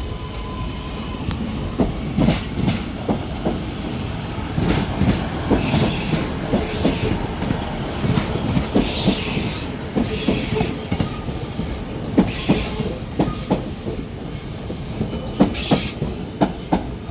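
Passenger trains moving slowly through station pointwork: a steady low rumble with many irregular clicks of wheels over rail joints and points, and several short bursts of wheel squeal.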